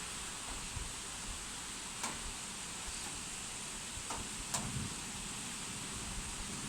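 Steady hiss of heavy rain, with a few sharp clicks and knocks about two and four seconds in.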